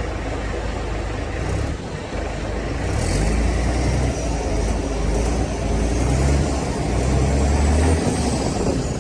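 Heavy diesel engine of earthmoving machinery running under load, getting louder about three seconds in, with a faint high whine that rises and then falls in the second half.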